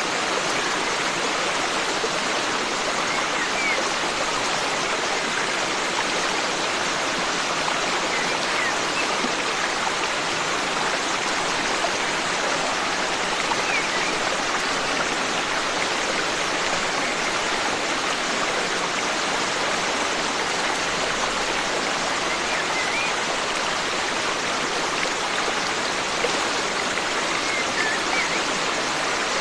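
Forest stream flowing in a steady, even rush of water, with a few faint bird chirps now and then.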